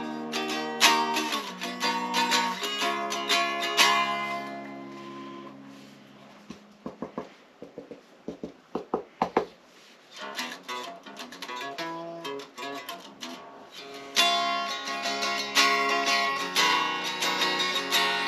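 Chapman SAR63 semi-hollow electric guitar playing chords that ring out and fade about four seconds in. A run of short muted string hits follows near the middle, then the playing picks up again and grows louder about two-thirds of the way through.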